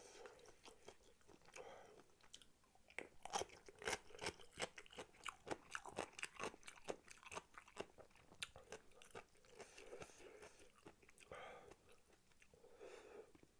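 Close-miked chewing, with many small wet mouth clicks and crunches at an irregular pace.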